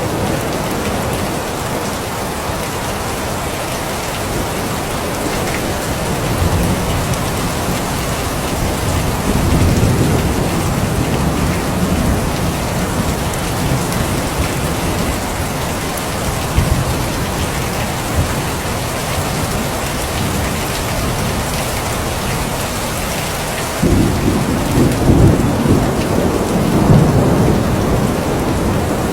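Steady rain falling, with low rolling thunder rumbling under it: a swell of rumble near the middle, and a louder one that starts abruptly near the end.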